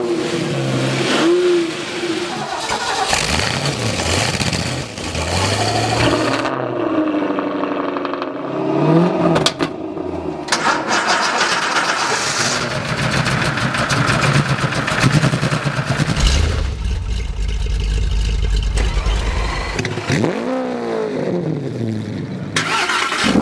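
Several high-performance car engines in turn, starting up and being revved, their pitch rising and falling with each blip of the throttle. The sound changes abruptly several times as one car gives way to the next.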